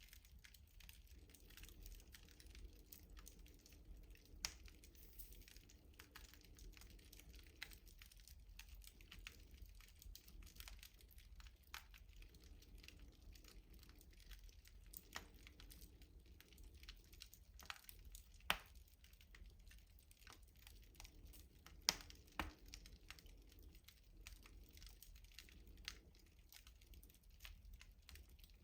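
Wood fire crackling in a rustic stove: irregular small snaps and pops over a faint low rumble, with a few sharper, louder pops about 4, 18 and 22 seconds in.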